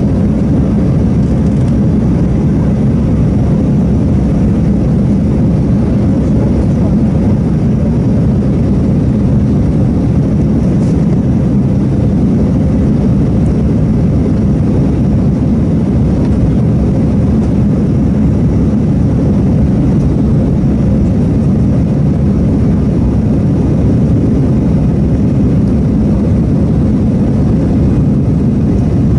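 Steady low rumble of an Airbus A318's jet engines and airflow heard from inside the passenger cabin, holding an even level throughout.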